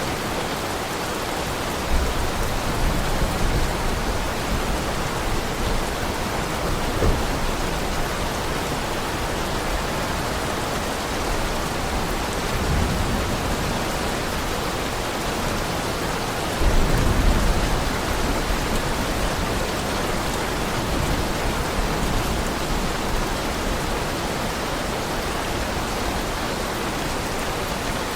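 Heavy rain falling steadily, with low rumbles of thunder swelling up several times, the strongest about two-thirds of the way through.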